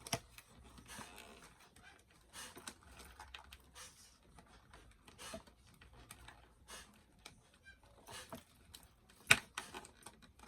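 Small plastic doll accessories and packaging being handled: scattered light clicks and rustles, with one sharp click about nine seconds in.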